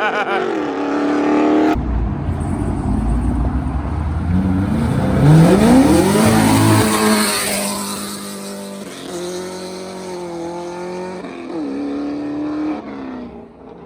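A modified car engine revving hard as the car accelerates away, with a loud rising sweep in pitch about five seconds in. After that the engine climbs and drops through several gear changes, growing fainter as the car pulls off.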